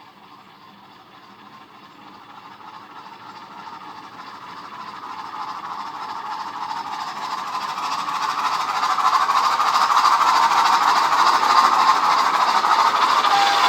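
Model train running along the track, growing steadily louder as it approaches. A steady whine comes in at the very end.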